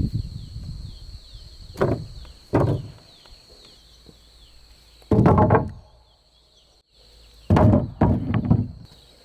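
Heavy knocks of wood being struck, a few single blows and then a close cluster, each with a short ringing tail. Behind them, insects keep up a steady high drone with little falling chirps.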